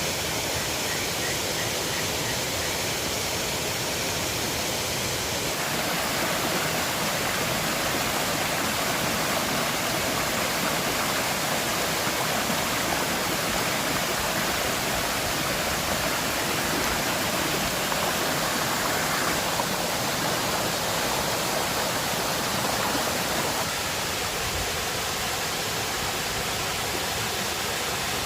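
River water rushing steadily in a constant hiss. The sound steps to a slightly different, louder blend about five seconds in and back to a quieter one near the end.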